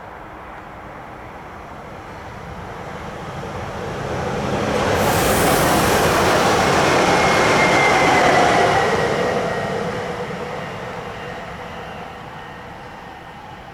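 Bombardier Talent electric multiple unit passing by. The rolling noise of its wheels on the rails builds over a few seconds, peaks with a faint whine from the drive that falls slightly in pitch as the train goes past, then fades away.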